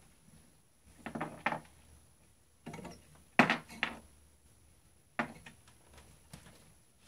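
32 cc two-stroke leaf blower engine being pull-started: several yanks of the recoil starter cord, each a short rattling burst, without the engine catching.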